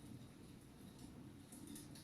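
Faint crackling of a wood fire in a fireplace over a low steady rumble, with a few soft pops near the end.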